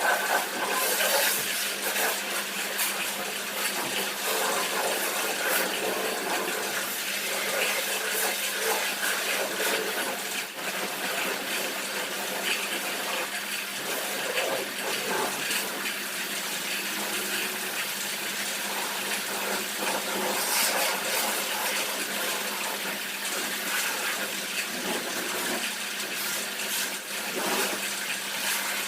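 Water spraying hard and steadily onto a car at a car wash, a continuous rushing hiss with a steady low hum underneath.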